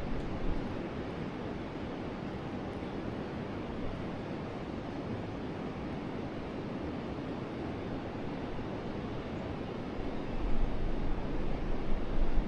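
Forest river flowing: a steady, even rush of water. Wind buffets the microphone in low rumbling gusts near the end.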